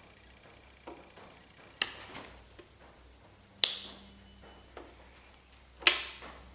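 A few sharp metallic clinks and knocks, a second or more apart, the loudest near the end; one rings briefly, like steel tools or parts being set down or tapped on an engine block.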